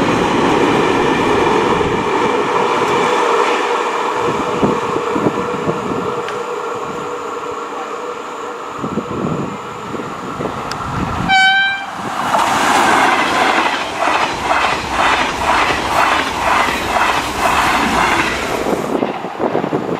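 A train passing a level crossing: a steady sound with several held tones as it approaches, a very short horn blast about eleven seconds in, then the wheels clattering over the rail joints in a quick even rhythm for several seconds before cutting off sharply as the train clears.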